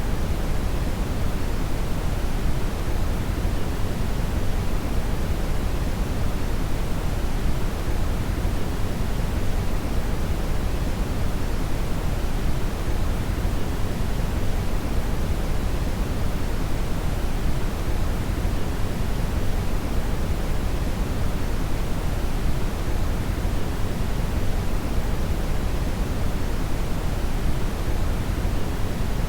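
Brown noise (red noise): a steady, deep hiss whose energy is strongest in the bass and falls off toward the treble, with no changes or events.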